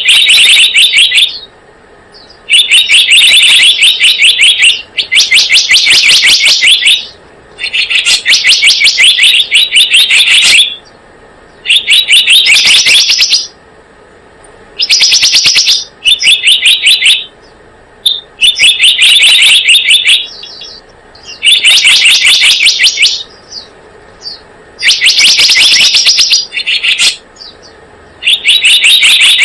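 Bird-lure recording of a selendang biru bird's call: bursts of very rapid, high chattering trills, each about one to two seconds long, repeated over and over with short pauses between.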